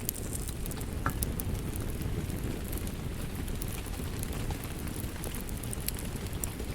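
Wood fire crackling in a fireplace: a steady low rumble of flames with many small sharp snaps and pops throughout, one slightly louder pop about a second in.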